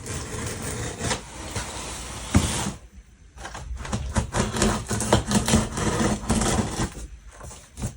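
A cardboard box and its packaging being opened and handled: scraping, rustling and small knocks, with a short lull about three seconds in.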